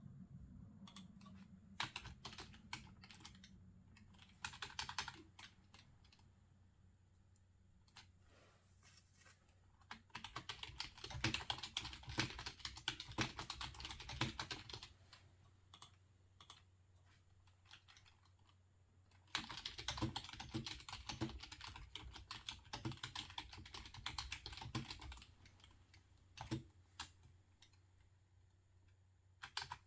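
Quiet typing on a computer keyboard: two long runs of fast, steady keystrokes, one about a third of the way in and one after the middle, with scattered single clicks and pauses in between.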